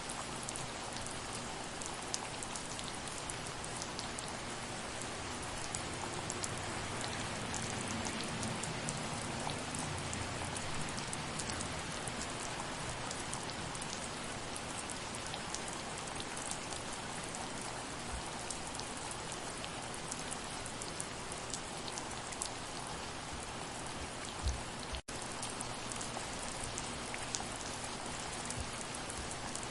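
Steady soft rain, a dense even hiss full of fine individual drop ticks. Near the end there is one short low thump, then a split-second gap in the sound.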